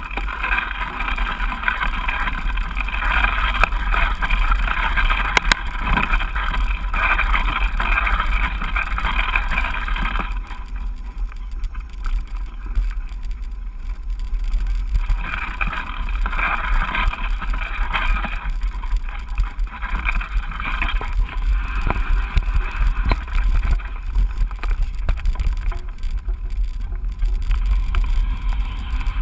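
Mountain bike ride heard from an onboard action camera: a steady low wind rumble on the microphone, with tyre noise on the trail that swells and fades and scattered small clicks and rattles from the bike.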